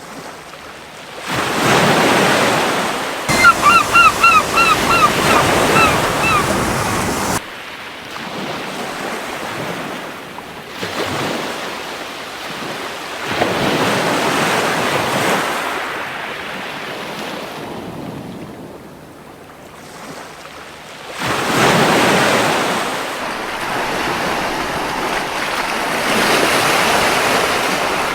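Ocean waves breaking and washing up a beach in slow, repeated surges. A few seconds in, a gull gives a quick run of about eight short cries, each falling in pitch.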